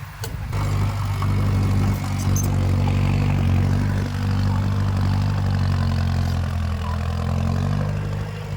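Heavy diesel engine of earthmoving machinery running steadily. It comes up loud about half a second in and eases off near the end.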